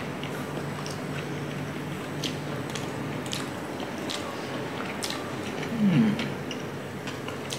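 Eating by hand: chewing and small mouth clicks and smacks, with fingers working through rice and chicken. About six seconds in comes a short hummed 'mm'.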